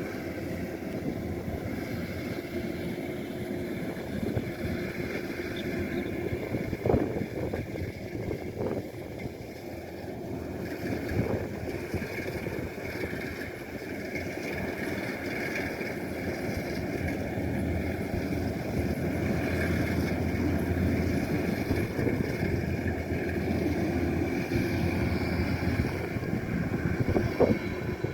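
Kubota DC-105X rice combine harvester running steadily, its engine and machinery making a continuous mechanical drone with a few short knocks, growing somewhat louder in the second half.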